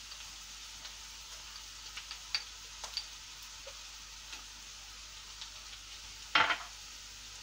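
Onions, ginger and garlic sizzling quietly in melted butter in a frying pan, with a few faint light ticks. About six seconds in there is a brief louder noise from a utensil in the pan.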